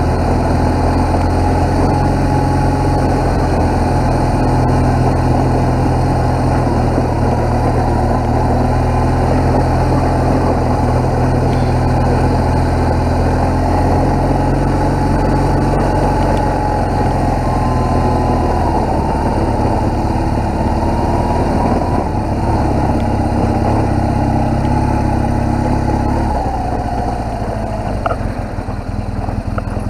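BMW R1200GS boxer-twin engine running as the motorcycle rides along, with a steady note. Its pitch shifts about two-thirds of the way through, then drops off near the end as the throttle eases.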